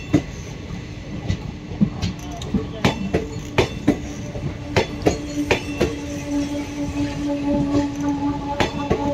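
ICF passenger coaches rolling past, their wheels clacking over the rail joints. About three seconds in a steady squeal joins and holds.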